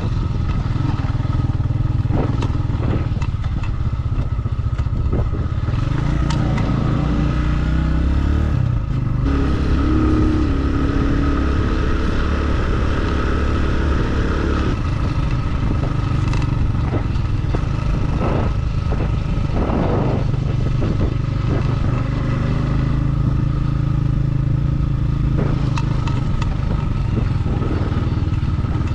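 Motorcycle engine running steadily while riding, with occasional sharp knocks and rattles. The engine note changes for several seconds midway.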